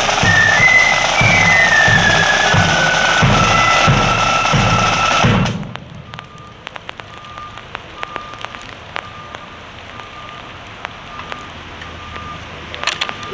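Marching flute band playing, a high flute melody over steady bass drum beats, cutting off suddenly about five and a half seconds in. After that, a quieter background with scattered faint clicks and a soft short beep repeating a little more than once a second.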